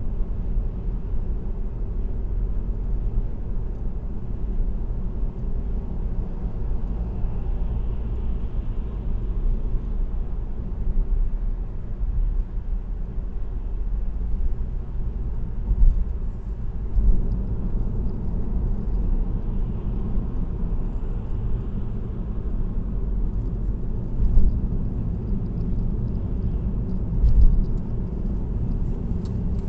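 Road and tyre noise of a car cruising on an expressway, heard inside the cabin: a steady low rumble, with a few brief thumps in the second half.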